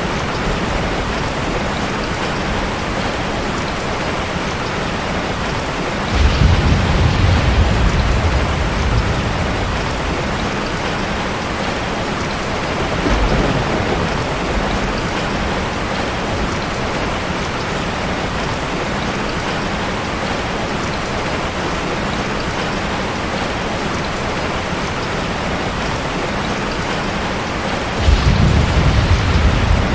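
Heavy rain falling steadily, with low rumbles of thunder swelling about six seconds in, briefly near the middle, and again near the end.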